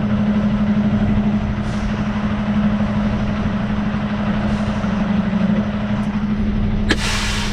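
Semi truck's diesel engine running steadily. Near the end there is a click and a short sharp hiss of air from the air brakes.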